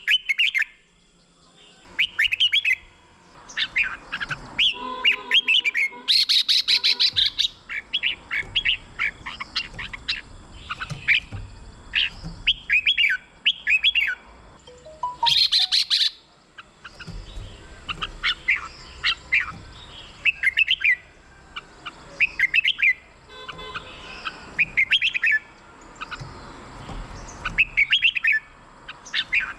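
Red-whiskered bulbul singing: short, bright, whistled phrases repeated again and again with brief pauses between them. Twice, about six seconds in and again near the middle, a harsher rattling call breaks in.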